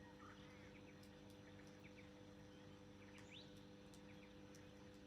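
Faint bird chirping: scattered short, quick rising chirps, with a small cluster past the middle, over a steady low hum.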